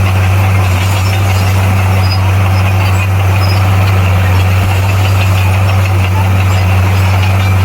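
Bulldozer diesel engine running steadily at an even, unchanging pitch.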